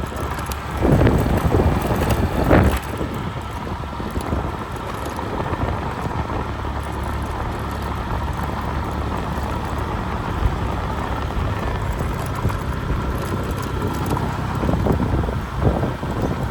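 Wind buffeting the microphone in a steady low rumble, with louder gusts about a second in and again near the end.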